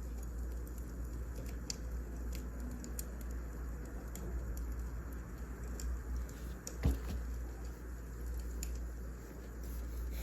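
Wood fire crackling in a fireplace over a steady low rumble, with scattered small pops and one louder pop about seven seconds in.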